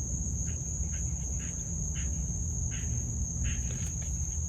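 Crickets trilling one steady high note, over a continuous low rumble.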